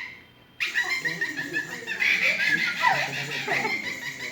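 A crowd of children laughing and squealing, starting suddenly about half a second in and going on without a break.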